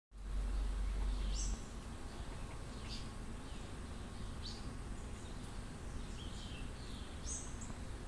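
Short, high bird chirps, each falling in pitch, repeated about every second and a half over a steady hiss. A loud low rumble on the microphone fills the first second and a half.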